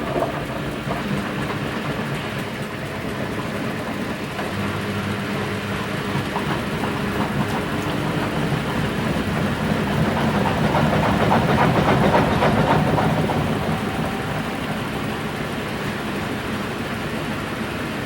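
Washing machine mid-cycle on a 40°C program: water sloshing as the drum turns, over a low motor hum. It grows louder about ten seconds in, then eases back.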